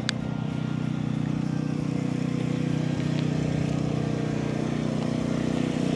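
An engine running steadily at idle, an even low hum that doesn't change, with one brief sharp click right at the start.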